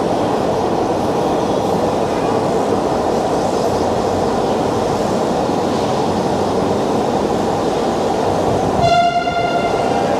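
Electric metro train on Dhaka's first metro line running on a test run, a steady rumble, sounding its horn once for about a second near the end.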